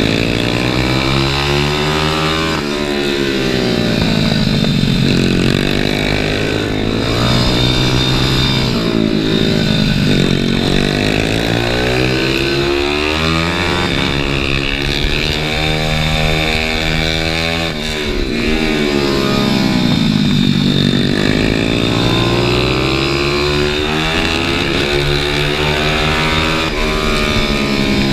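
Onboard sound of a pit bike's single-cylinder engine ridden hard, its revs climbing and dropping again and again as it accelerates out of corners and slows into them.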